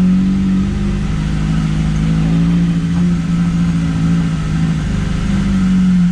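Engine of a 4x4 off-road vehicle running steadily while driving, its pitch drifting slightly up and down.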